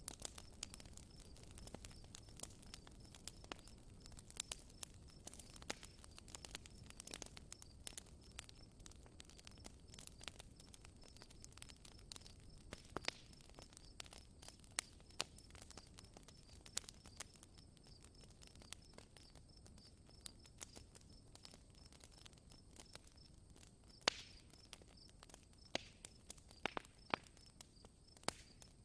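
Campfire crackling: irregular sharp pops and snaps of burning wood over a low soft rumble, with a few louder pops.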